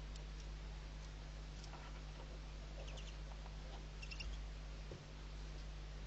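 Faint, short high-pitched squeaks and a few light clicks over a steady low electrical hum, with a small cluster of squeaks about three seconds in and another about four seconds in.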